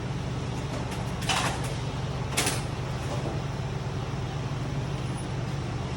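Two short clatters of hand tools being rummaged through, about a second apart, over the steady hum of a large shop fan.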